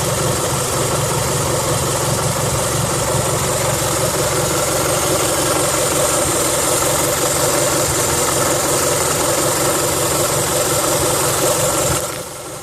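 Toyota 3S-GE BEAMS twin-cam four-cylinder engine idling steadily, with the extraneous noise that the owner is trying to pin down. The sound drops sharply for a moment near the end.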